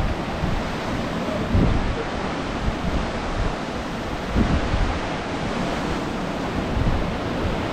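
Wind buffeting the microphone in uneven low gusts over the steady wash of sea surf.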